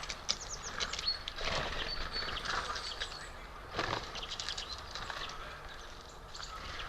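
Small birds at a feeder: wings flapping as they fly in and out, with two short rushes of wingbeats, scattered short high chirps and many small clicks.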